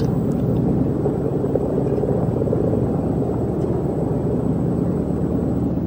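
Steady low mechanical drone of machinery running, even in level, with a faint high whine held throughout.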